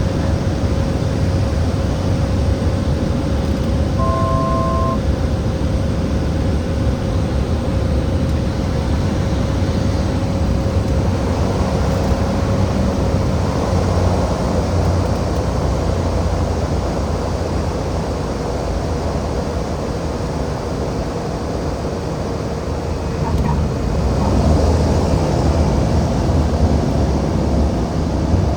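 Cabin noise of a Cessna 208B Grand Caravan's single PT6A turboprop during the landing approach: a steady low drone with a thin engine tone above it that drops slightly in pitch about halfway through. About four seconds in, a brief two-tone electronic chime sounds for about a second, and near the end the noise swells.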